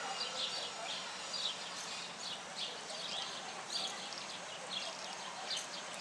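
Small birds chirping: short, high chirps repeated about twice a second over a faint steady outdoor hiss.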